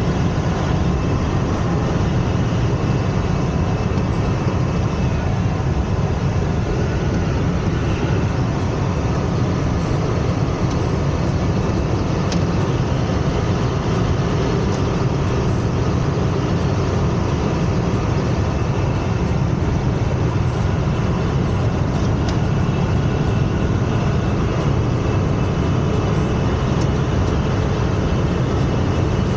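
Steady, unbroken drone of airflow and the distant tow plane's engine, heard from inside a KR-03 Puchatek glider's cockpit during an aerotow climb.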